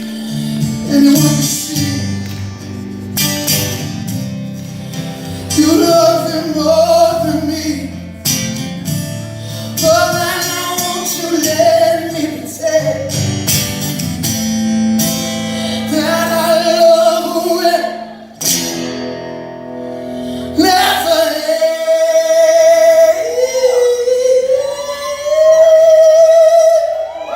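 Live acoustic performance: a high male voice sings over strummed acoustic guitar, ending on a long held note with vibrato.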